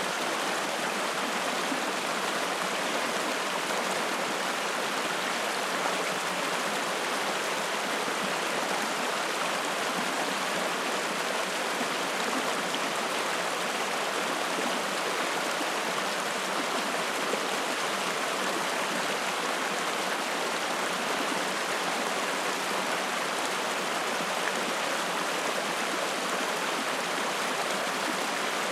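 Spring-fed mountain stream flowing and splashing, a steady rushing of water with no change.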